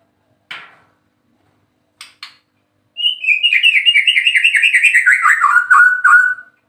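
White-rumped shama (murai batu) singing: a short rasping note and two sharp clicks, then a loud, fast run of repeated notes that slides steadily down in pitch.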